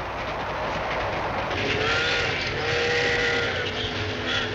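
Train running with a steady rumble and hiss. A train whistle sounds a chord of several notes in three long blasts, starting about a second and a half in.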